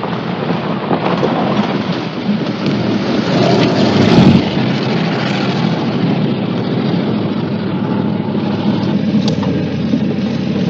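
Car engine running hard at speed under a steady rush of road and wind noise, swelling louder about four seconds in.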